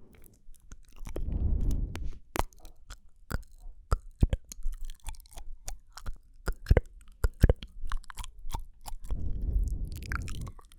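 Close-up ASMR mouth sounds: a string of sharp, wet clicks and smacks from the tongue and lips, irregularly spaced. There are two stretches of low rumbling noise, one about a second in and one near the end.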